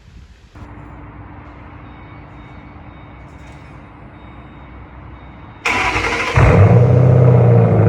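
A 2005 Ford Mustang GT's 4.6-litre V8 being started, breathing through Flowmaster axle-back mufflers: a brief crank near the end, then the engine catches and settles into a loud, steady idle.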